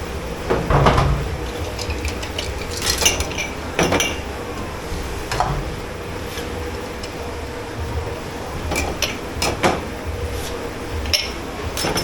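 Crockery, pots and cutlery being handled at a dishwashing station: irregular clinks and knocks of plates, pans and utensils set down and stacked, over a steady low hum.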